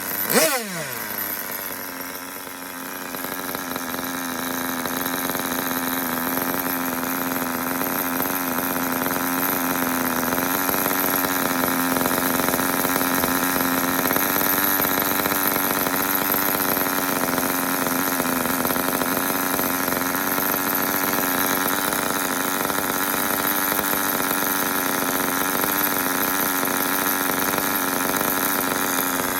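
Kyosho GXR15 small nitro glow engine running: a quick rev blip that drops back just after the start, then a steady, high-pitched buzzing idle that builds slightly over the first ten seconds and holds even.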